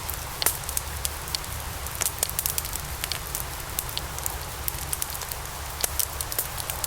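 Wood logs burning in a fireplace: a steady hiss and low rumble of the flames with frequent sharp, irregular crackles and pops.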